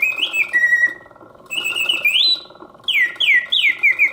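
Vintage Karl Griesbaum singing bird cage automaton singing at full voice: its bellows-driven whistle plays bird-song phrases of notes sliding up and down, with two short breaks, then a quick run of falling chirps near the end. The clockwork movement runs steadily underneath.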